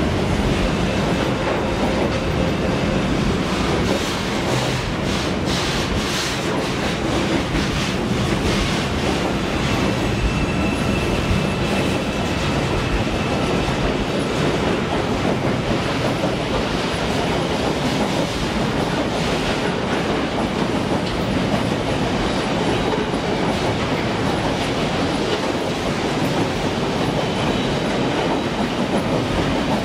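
Broad-gauge freight wagons loaded with shipping containers rolling past: a steady rumble of steel wheels on the rails with clickety-clack over the rail joints. A thin wheel squeal is heard around ten seconds in.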